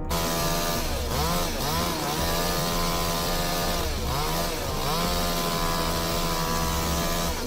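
Chainsaw engine running at high revs. Its pitch dips briefly twice, about a second in and again around four seconds in, then comes back up.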